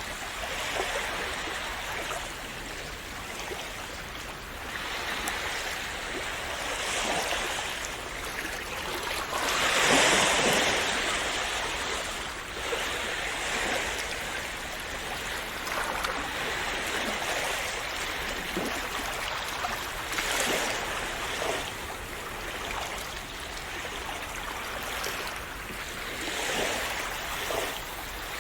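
Calm sea waves lapping and splashing, a steady wash that swells and fades every few seconds; the biggest wave breaks about a third of the way in.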